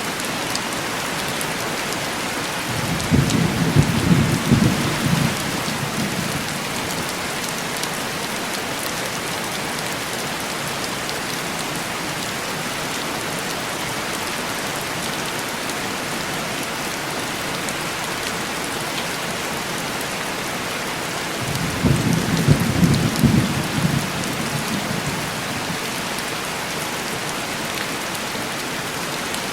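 Heavy rain falling steadily on window glass, with two rolls of distant thunder, one a few seconds in and another about two-thirds of the way through.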